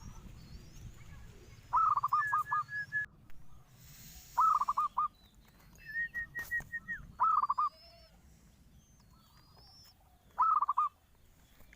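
Zebra dove (perkutut) calling: four short bursts of rapid staccato cooing notes, a few seconds apart. Another small bird's thin, high rising chirps sound faintly in the background.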